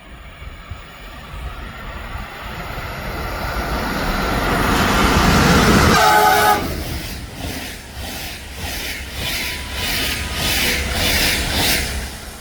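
A train approaching and passing at speed: a rising rumble, a short horn blast about six seconds in, then the rapid, regular clatter of wheels over rail joints as the cars go by, fading near the end.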